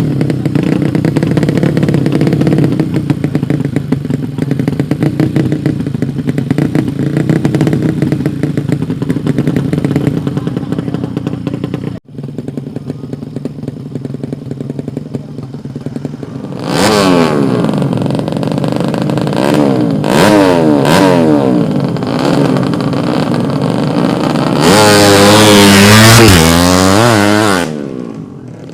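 Tuned drag-race motorcycle engines running at a steady, busy idle. Then, after a break, bikes revving hard and accelerating with pitch climbing and stepping through gear changes, loudest near the end.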